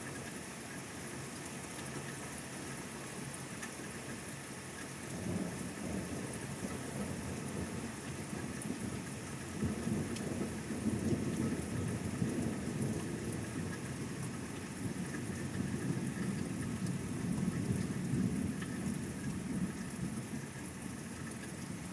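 Steady rain with a long rumble of thunder that begins about five seconds in, builds strongly around ten seconds in and rolls on before easing near the end.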